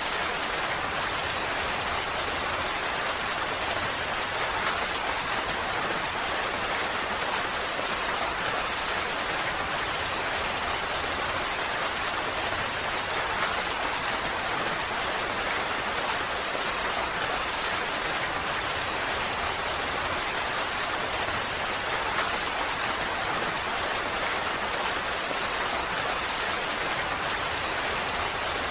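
Steady rain falling, an even hiss with a few separate drops ticking through it.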